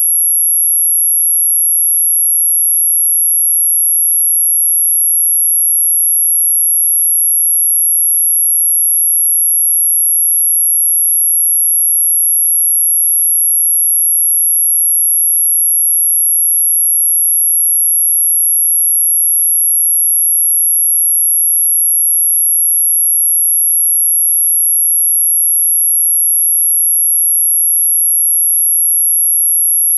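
A single pure, very high-pitched electronic tone held perfectly steady and unbroken: a mosquito-repellent tone meant to drive off mosquitoes and other pests.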